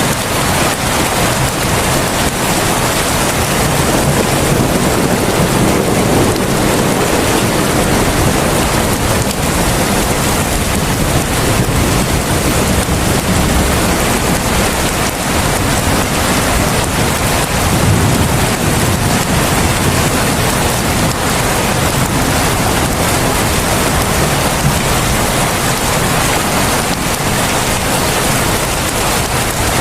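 Heavy rain falling steadily in a dense, even hiss, with a low rumble swelling now and then beneath it.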